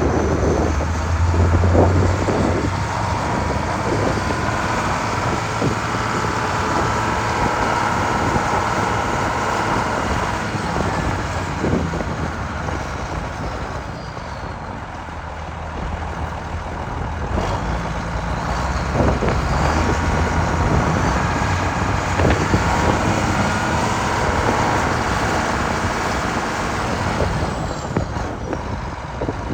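1990 Case IH 7140 Magnum tractor's six-cylinder diesel engine running, louder and softer by turns, with a steady whine over the engine note.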